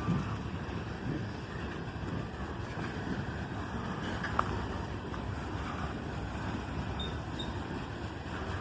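Freight cars rolling past close by: a steady rumble of wheels on the rails, with wind on the microphone and one brief sharp click about four seconds in.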